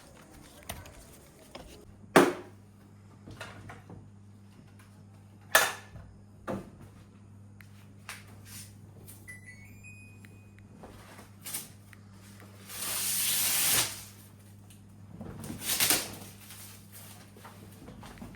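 Newly installed split air conditioner being worked at the unit: sharp clicks and knocks, a steady low electrical hum that comes on after the first click about two seconds in, a short rising electronic beep tune about ten seconds in, and two brief rushing noises near the end.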